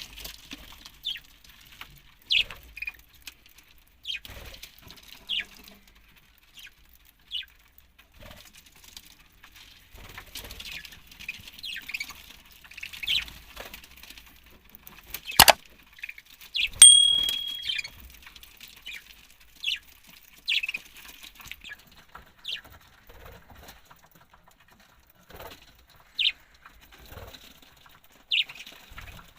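Budgerigars chirping in short, scattered calls, with some wing fluttering. A single sharp knock comes about halfway through, followed by one brief held whistle note.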